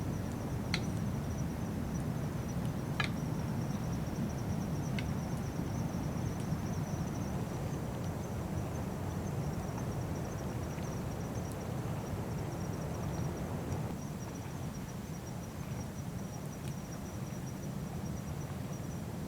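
Crickets trilling steadily in a high, pulsing chirr, over a constant low rumble of outdoor background noise. A few sharp pops stand out in the first five seconds.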